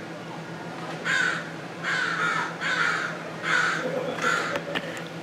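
A bird calling five times in a row, short calls a little under a second apart.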